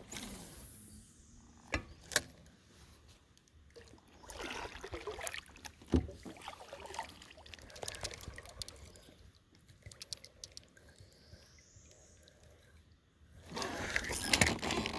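Scattered light knocks and clicks with a few brief swishes of water.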